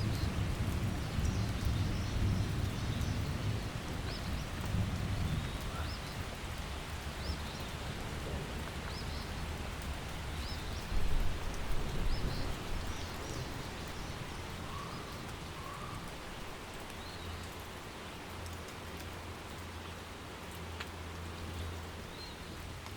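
Steady rain falling, with low rolling thunder rumbling through the first few seconds and again about eleven seconds in.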